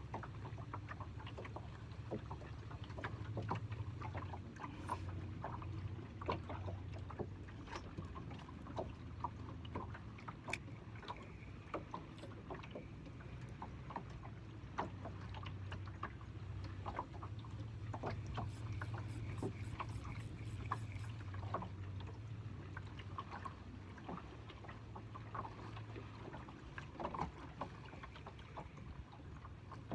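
Water lapping and slapping against a small fishing boat's hull, with many scattered light clicks and knocks over a low steady rumble.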